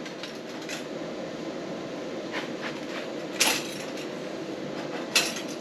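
A few short knocks and clinks from stainless steel exhaust tubing being taken off and handled, with two sharper knocks about three and a half and five seconds in, over a steady hum of shop noise.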